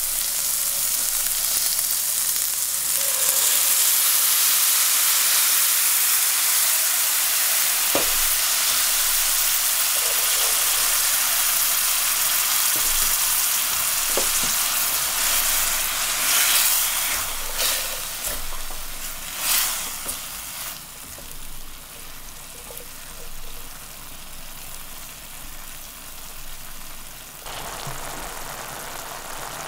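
Onion, garlic and sun-dried tomato frying in oil in a stainless steel pan: a loud, steady high sizzle. A little past halfway it flares with a few short, sharp hisses, then dies down to a much quieter sizzle once the chickpeas and their liquid are in the pan.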